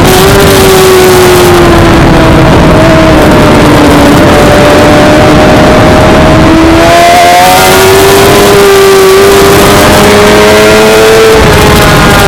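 Suzuki GSX-R600's inline-four engine running hard, very loud over a steady rush of noise. Its pitch drops sharply at the start, sags slowly for several seconds, then climbs steadily through the second half before easing off near the end.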